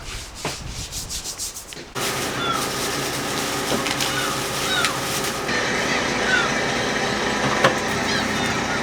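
Knife scraping and rubbing over fish on a cutting board in repeated strokes. About two seconds in, a louder steady mechanical hum comes in, with short chirping calls over it.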